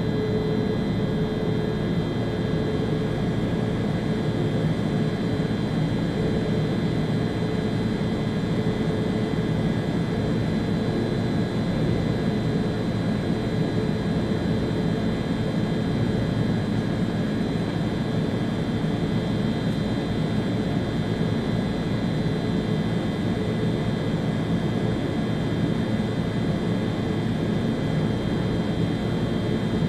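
ÖBB Railjet train running steadily along the line, heard from the driver's cab: an even rumble and rush of running noise with a few steady whining tones over it.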